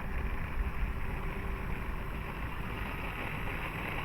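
Wind rumbling on the microphone, with the faint, thin whine of a small electric RC plane motor turning at low power.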